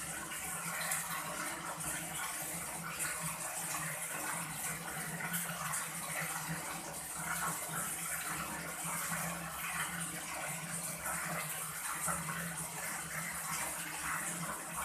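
Tap water running steadily, splashing unevenly as fish is washed and cleaned by hand.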